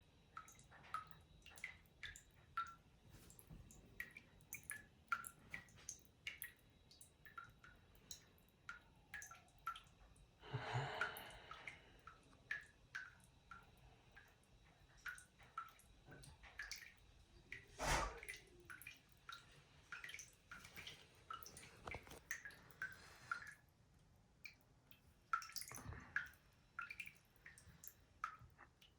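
Water dripping from a leaky faucet: short, faint plinks of drops, unevenly spaced at about two a second. There is a brief noisy rush of water about ten seconds in and a single louder knock around the middle. The drip continues after an attempted repair.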